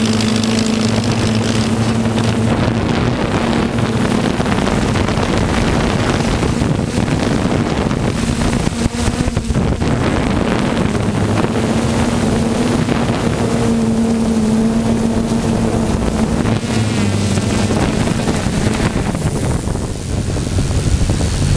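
A pulling tractor's engine running at steady high revs, holding its pitch and wavering near the end, with wind rumbling on the microphone.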